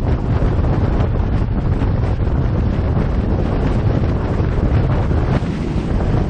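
Wind buffeting the microphone: a steady, loud, low rumbling noise with no pitch, unbroken throughout.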